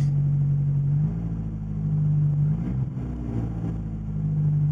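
1980 Porsche 924 Turbo's turbocharged 2.0-litre four-cylinder engine running at idle. Its speed rises about a second in, swells up and back down mid-way, and settles back to a steady idle near the end.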